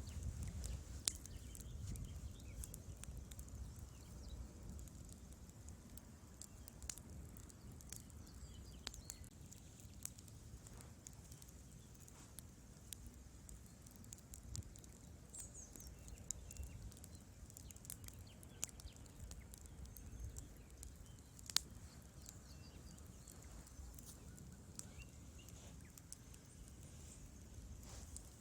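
Wood fire burning in a fireplace: a low steady rumble with scattered sharp crackles and pops, one louder snap about three quarters of the way through.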